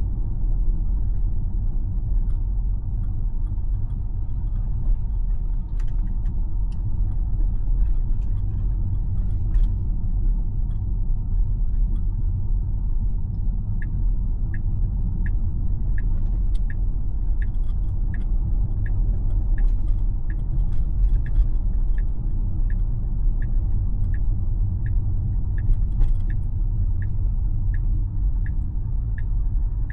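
Steady road and tyre rumble inside a Tesla's cabin while it drives. About fourteen seconds in, the turn signal starts ticking, about one and a half ticks a second.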